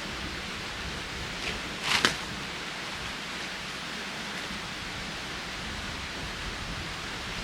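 Steady rushing outdoor noise, even in level, with a brief louder rustle about two seconds in.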